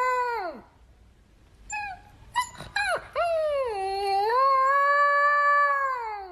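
A dog howling. A long howl slides down and stops about half a second in. A few short yips follow, then another long howl of about three seconds that drops in pitch as it ends.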